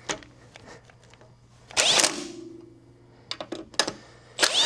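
Two short bursts of tool noise on metal, about two and a half seconds apart, each followed by a faint ringing tone lasting about a second, with small clicks between.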